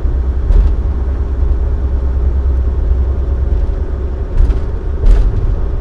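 Dump truck cruising at highway speed, heard from inside the cab: a steady low engine drone and road rumble with a constant hum, and a few faint knocks.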